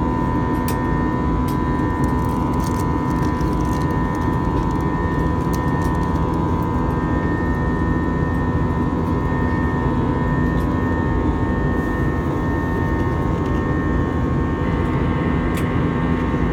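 Steady in-flight cabin noise of a jet airliner: engine and airflow noise with a few steady hum tones, and a few faint clicks.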